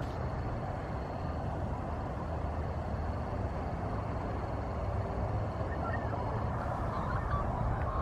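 Steady low outdoor rumble, with a few faint high chirps about six to seven seconds in.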